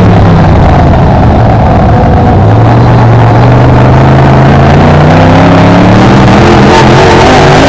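On-board sound of a BriscA F1 stock car's V8 engine, loud enough to overload the microphone. The engine is held back at lower revs, then rises steadily in pitch as the car accelerates for a few seconds.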